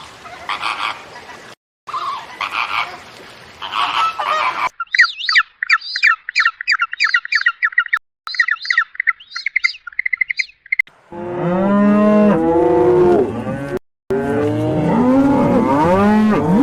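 A run of animal calls: rough, raspy calls in short bursts, then about six seconds of rapid high bird chirping, then from about eleven seconds loud honking calls that rise and fall in pitch, typical of geese or other fowl.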